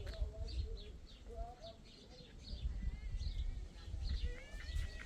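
Birds chirping in quick short repeated notes, with a few lower calls and gliding whistles near the end, over a steady low rumble.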